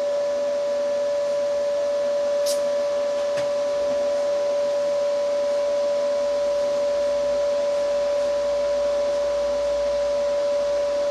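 Steady whirring hiss of a running machine with a constant whine, and a couple of faint clicks about two and a half seconds in.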